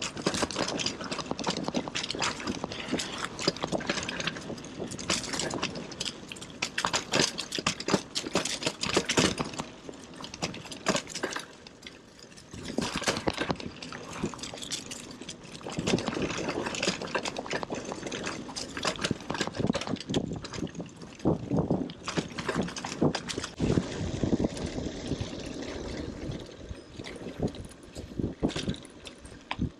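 Bicycle riding over a rough gravel trail: tyres crunching and the bike rattling with dense clicks and knocks, briefly quieter about twelve seconds in.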